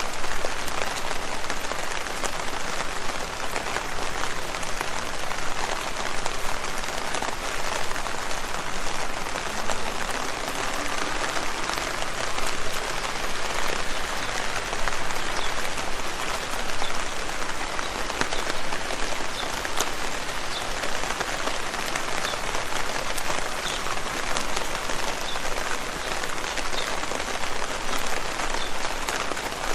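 Steady rain falling on leaves: a dense, even patter of many drops.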